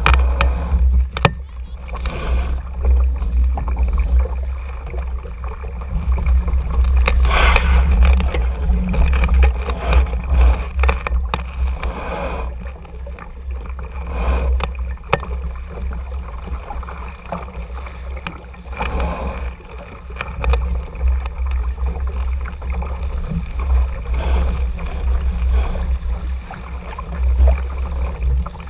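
Wind rumbling on the camera microphone while a small sailing dinghy moves through the water, with water washing and splashing against the hull and now and then a sharper splash or knock.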